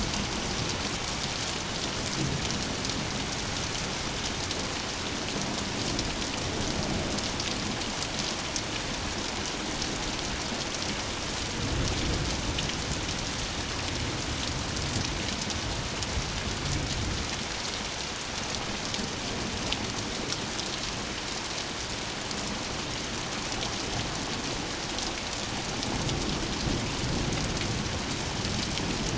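Steady heavy rain pattering on surfaces, with low rumbles of thunder swelling a few times, about twelve seconds in, again a few seconds later, and near the end.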